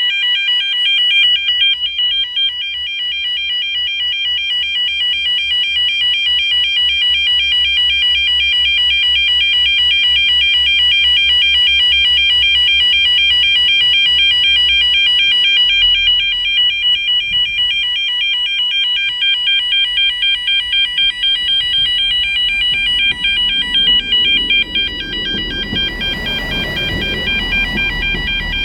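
Railway level crossing yodel alarm warbling steadily. In the last few seconds a broad rumble swells beneath it as a train comes through the crossing.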